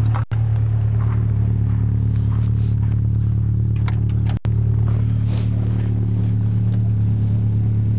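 1991 Volkswagen Golf GTI Mk2 16-valve four-cylinder engine idling steadily, an idle the owner calls perfectly fine. The sound cuts out for an instant twice.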